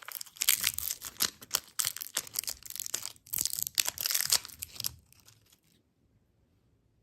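Candy packaging being torn and crumpled: dense crinkling and crackling that stops about five seconds in.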